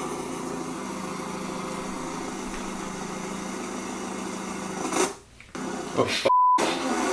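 A recorded car engine played back for the guessing game, running steadily at idle. About five seconds in it fades and cuts out. Near the end comes a short single-tone bleep.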